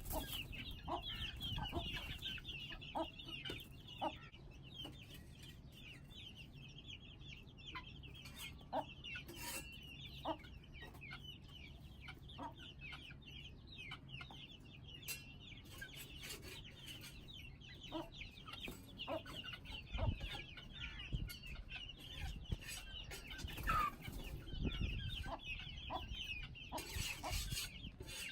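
A group of young Aseel chickens, about fifty days old, cheeping and clucking continuously in high chirps, with scattered short clicks among them.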